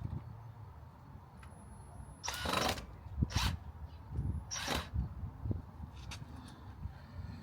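Workshop tool sounds: a few short hissing bursts in the middle, with low knocks and handling noise around them.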